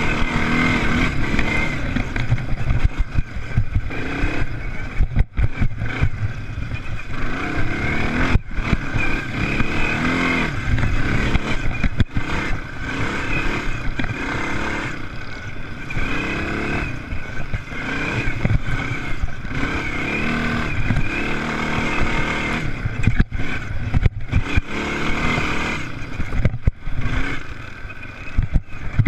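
Motocross bike engines racing, revving up and dropping back over and over as the bikes accelerate and shift.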